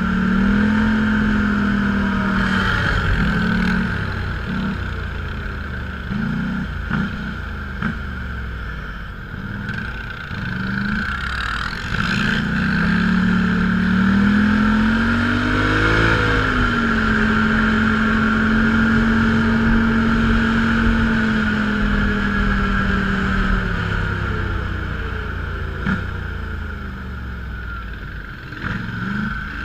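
An off-road vehicle's engine running under way, its note rising as it speeds up about halfway through, holding steady, then easing off near the end.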